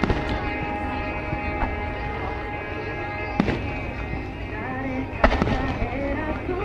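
Fireworks exploding: a sharp bang right at the start, another about three and a half seconds in, and a quick cluster of cracks a little after five seconds, over steady background music.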